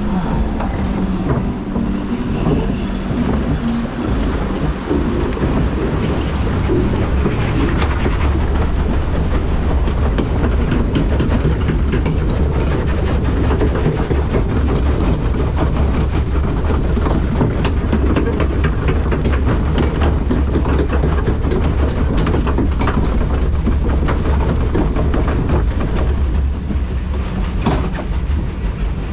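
The raft of a river rapids ride underway, giving a loud, steady low rumble with a quick run of clattering clicks on top.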